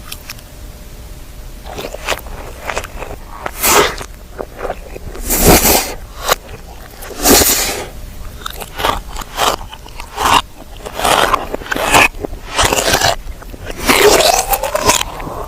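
Close-miked eating sounds: irregular crunchy bites and chewing, loud bursts about a second apart.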